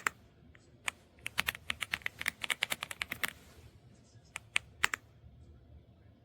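Typing on an Aula F75 gasket-mount mechanical keyboard: a couple of single keystrokes, a quick run of keystrokes from about a second in, then a few more isolated presses.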